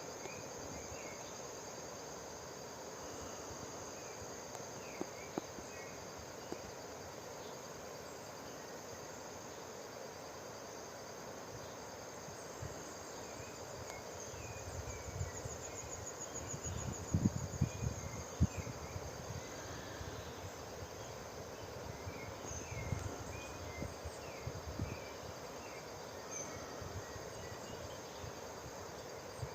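Ecuadorian cloud forest ambience: steady high-pitched insect calls with scattered short chirps. Low rumbling thumps come and go about halfway through.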